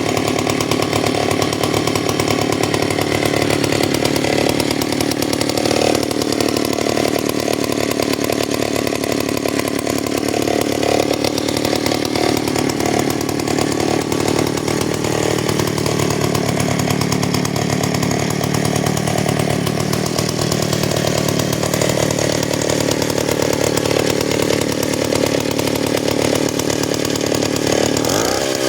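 MAW bicycle auxiliary engine, a small two-stroke, running steadily.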